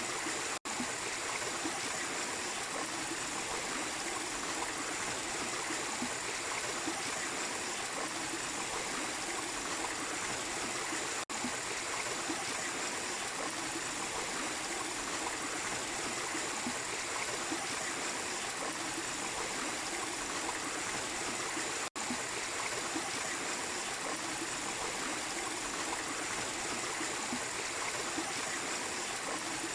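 Small waterfall: water running and splashing steadily, broken three times by a split-second dropout.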